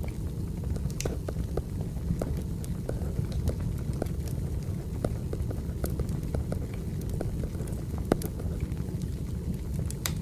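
Crackling wood fire: a steady low rumble of burning logs with irregular sharp pops and snaps, a louder pop about eight seconds in.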